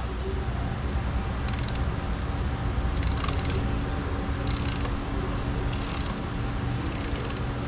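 Socket ratchet clicking in five short runs, about one every second and a half, as it loosens the 10 mm bolts on an outboard lower unit's water pump housing. A steady low hum runs underneath.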